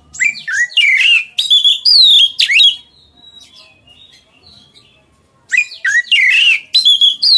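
A songbird singing loud, rapid phrases of varied whistled notes with quick falling sweeps, in two bursts of about two and a half seconds separated by a pause of about three seconds.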